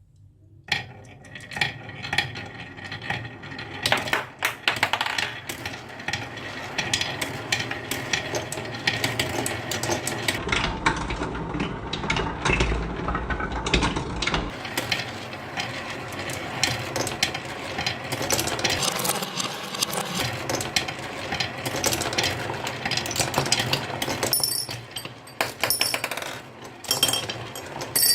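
Many marbles rolling and clattering down a marble run, a dense stream of clicks and clinks against the track and each other, starting suddenly about a second in.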